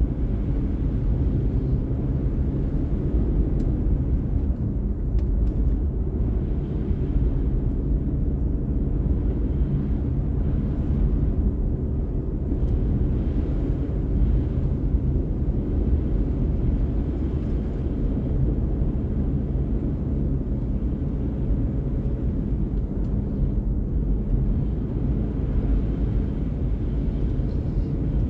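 Car driving at a steady speed: engine and tyre road noise making a steady low rumble.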